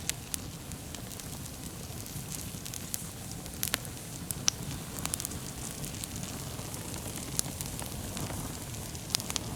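Wood campfire burning: a steady low rumble of flame with scattered sharp crackles and pops, the loudest pops about four seconds in.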